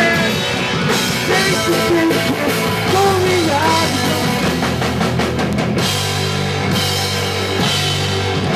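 Punk rock band playing live: drum kit, distorted guitars and bass, with dense drum hits and then a held ringing chord from about six seconds in.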